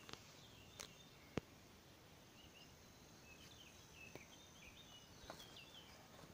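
Faint outdoor quiet with a small bird chirping in short phrases through the middle, over a thin steady high tone. A few light clicks stand out, the sharpest about a second and a half in.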